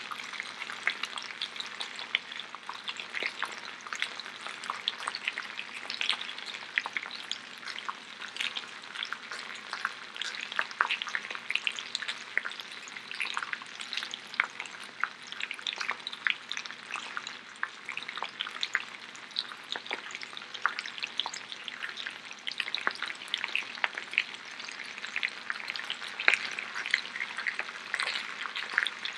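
Oil sizzling and crackling under potato galettes frying in skillets, a steady crackle of many small pops.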